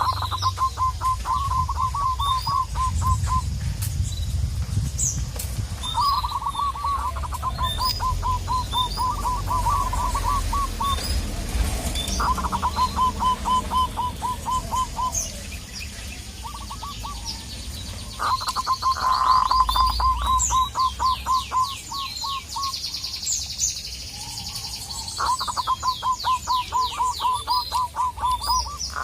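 Zebra doves (local perkutut) calling: runs of rapid, evenly spaced short cooing notes, a new run every few seconds. Higher chirps of small birds sound in the background, with a fast high trill near the end.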